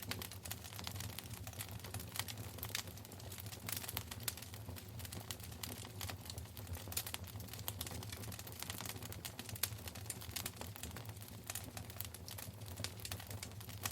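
Wood fire burning in a fireplace: dense, irregular crackles and pops, with a low steady rumble underneath.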